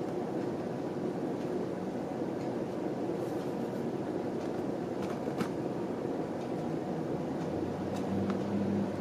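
Steady rumble of a train running, with a few light clicks over it.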